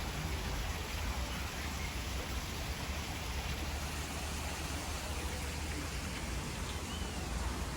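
Steady rushing hiss of falling water, with a low rumble underneath.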